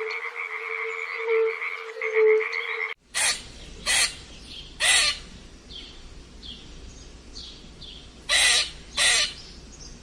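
A chorus of frogs trilling steadily. About three seconds in it cuts abruptly to a different animal recording: five short, loud calls in two groups, with faint chirps between them.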